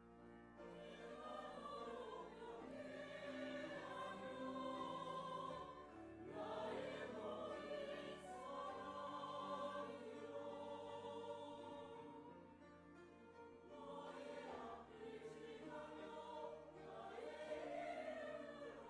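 Church choir singing an anthem in several parts, with long held notes that swell louder about six seconds in and again near the end.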